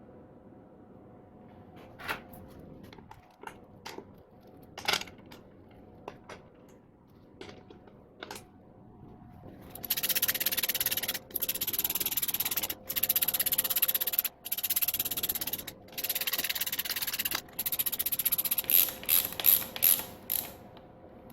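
Ratchet wrench clicking as bolts are run in on the engine, in quick spells of a second or two with short breaks, after a run of scattered single tool clicks and knocks.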